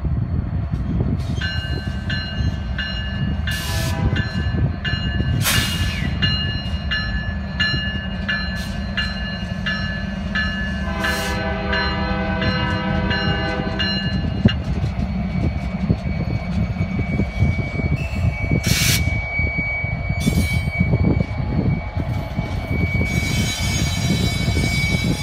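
Freight train diesel locomotives rumbling past, with a bell ringing steadily for the first half and a multi-chime air horn sounded once for about three seconds, starting about eleven seconds in. In the second half the wheels on the curve of the wye give a thin steady squeal that grows into a chorus of squeals near the end.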